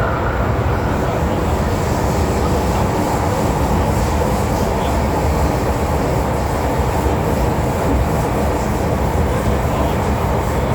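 MTR M-Train electric multiple unit running steadily through a tunnel, a continuous loud rumble of wheels on rail.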